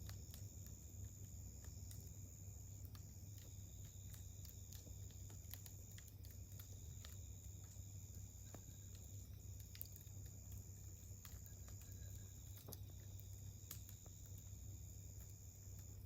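Wood campfire burning quietly, with frequent small crackles and pops scattered irregularly throughout, over a steady low hum and a faint steady high-pitched tone.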